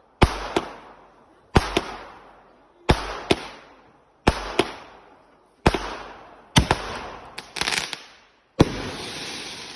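Consumer fireworks cake firing a string of shots, about one every second and a half, each a loud bang followed a moment later by a second sharp crack, with a patch of crackling about three quarters of the way through.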